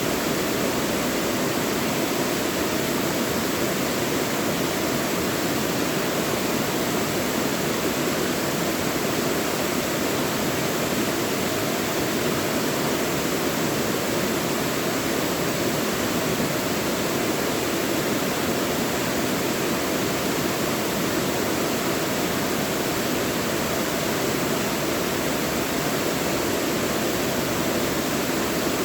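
Mountain stream rushing over rocks in a deep valley, a steady, even rushing with no breaks or changes.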